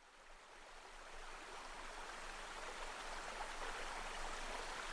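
Sound of a heavy downpour of rain fading in from silence and growing steadily louder as an even hiss.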